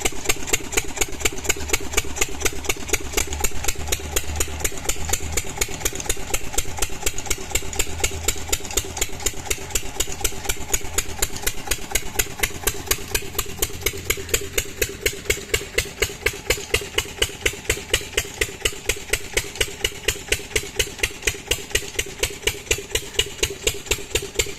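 12 HP Lister diesel engine running steadily while driving an irrigation water pump, with sharp, evenly spaced exhaust beats.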